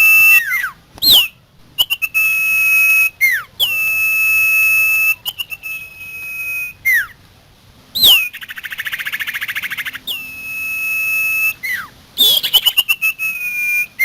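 Songbird song from a common iora and a white-rumped shama: long, steady whistled notes broken by quick rising and falling swept calls, with a rapid trill in the middle.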